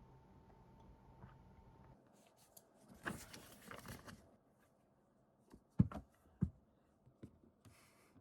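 Small objects handled indoors: about a second of rustling, then two sharp knocks about half a second apart, a few lighter taps, and a brief hiss near the end. A faint steady hum in the first two seconds cuts off suddenly.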